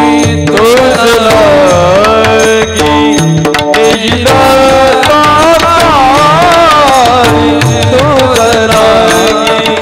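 Devotional kirtan singing: a voice carries a gliding, ornamented melody over steady held notes, accompanied by tabla and pakhawaj drumming.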